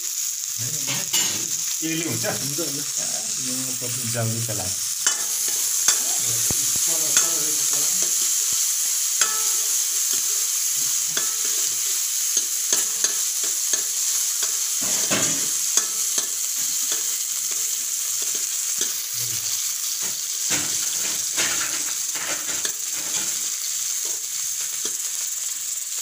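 Chopped garlic, ginger and onion sizzling in olive oil in a kadai, with a steady high hiss, while a spatula stirs them, scraping and clicking against the pan at irregular moments.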